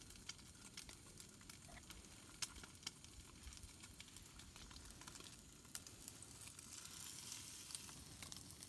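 Food frying in a pan, a faint steady sizzle with scattered small pops and crackles.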